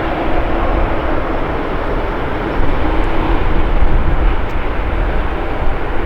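Jet engines of a British Airways Boeing 777-200ER airliner on landing approach, a loud, steady rumbling noise with a faint hum, a little louder from about two and a half seconds in.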